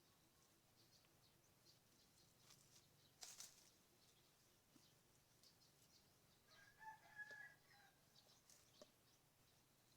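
Faint rooster crowing once, about seven seconds in, over a near-silent rural background with scattered faint clicks and chirps.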